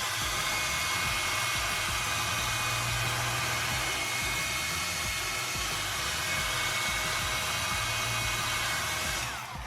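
Hand-held hair dryer blowing steadily, used to melt ice out of a freezer's evaporator fan, then switched off near the end, its motor winding down.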